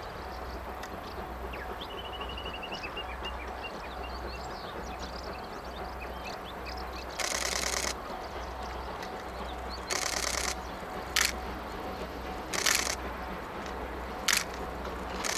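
Bursts of camera shutters firing in rapid continuous mode, several of them one after another, over a low regular throb. A bird trills briefly in the first few seconds.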